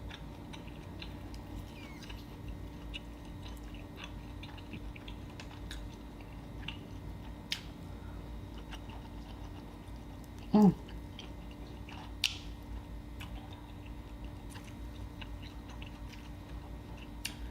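Close-miked chewing of seafood, with many small wet mouth clicks and smacks. A brief vocal sound comes about ten seconds in, and a short rising squeak-like sound a couple of seconds later.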